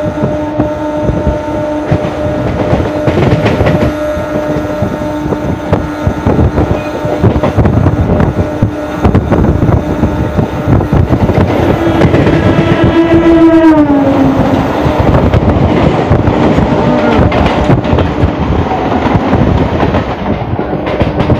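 An electric local train running at speed, heard from beside its open door: rushing air and wheels rattling over the rails, over a steady hum. About twelve seconds in, a train horn sounds for about two seconds and drops in pitch as it goes by.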